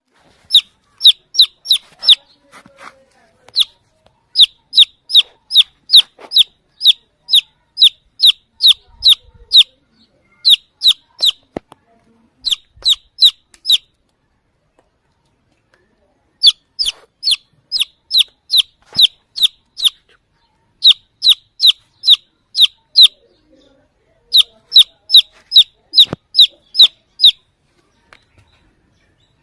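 Baby chick peeping loudly: short, high, shrill peeps at about two or three a second, in runs broken by short pauses. These are the calls of a chick looking for the mother hen.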